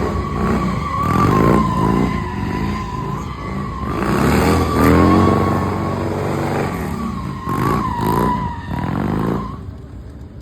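Motorcycle burnout: the engine revs up and down repeatedly while the spinning rear tyre squeals steadily against the pavement. The squeal cuts off a little before the end.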